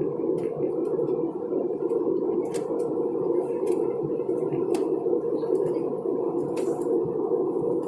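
Steady cabin noise of an airliner in flight: an even, unchanging hum with a few faint ticks.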